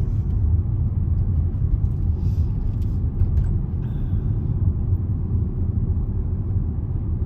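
Steady low rumble of a car's engine and tyres on the road, heard from inside the cabin while driving, with a few faint light ticks.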